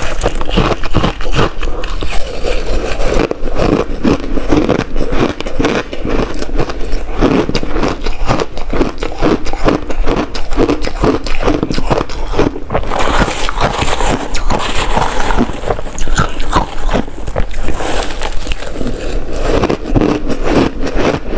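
Ice being bitten and chewed close to the microphone: a steady run of loud, rapid crunches and cracks.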